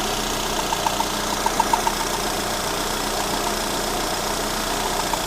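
Freshly rebuilt Lada Granta 16-valve VAZ-21126 engine idling steadily without lifter clatter, with bursts of short high chirps over the running, between about half a second and two seconds in and again near the end. The owner takes the noise for the camshaft bedding in after the rebuild.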